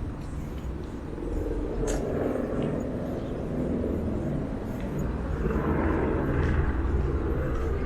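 Busy city street ambience: a steady low rumble like traffic, with a swell about two-thirds of the way through, as of a vehicle passing, and a few scattered clicks and knocks.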